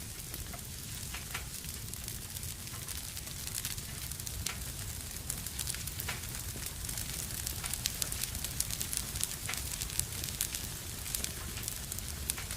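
Wood fire burning in a fireplace: steady hissing over a low rumble, with frequent sharp crackles and pops that come more thickly in the second half.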